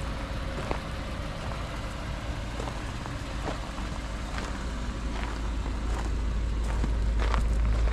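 Car on the move: a steady low rumble of engine and road noise with scattered light clicks, getting louder over the last couple of seconds.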